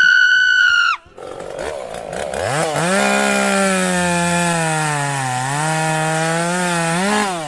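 A high, steady whistle-like tone lasting about a second. Then a chainsaw starts up about two and a half seconds in: its pitch climbs, holds with slight dips, rises once more and stops near the end.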